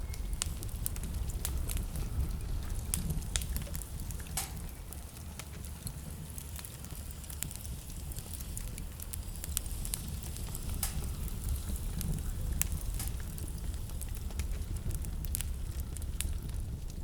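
Wood fire in a fireplace crackling, with irregular sharp pops scattered throughout over a steady low rumble.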